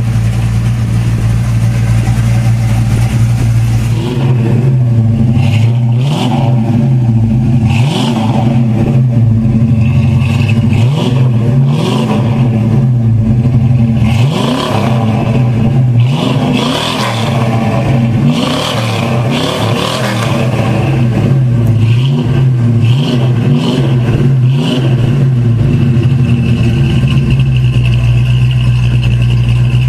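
Dodge Charger R/T's V8 idling, then revved again and again with quick throttle blips, its pitch sweeping up and falling back, from about four seconds in. It settles back to a steady idle near the end.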